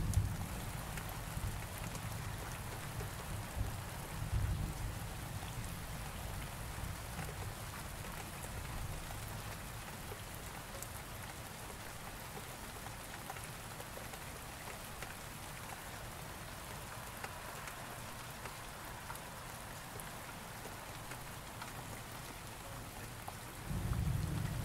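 Steady rain falling, with a low rumble of thunder that swells and fades away over the first several seconds, and a new roll of thunder starting near the end.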